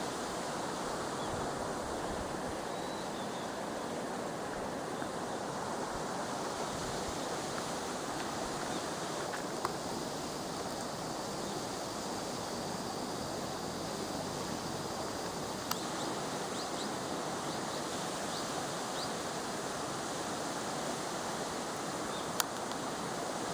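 Steady rushing of Pinaisara Falls' water pouring over the lip of the fall, with a few brief sharp clicks.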